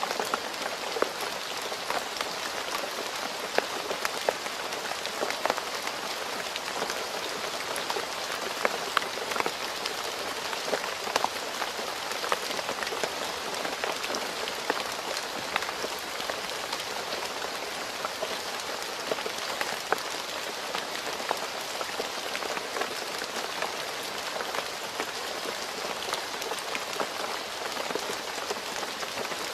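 Steady rain falling on a road surface, an even hiss dotted with many sharp individual drop splashes.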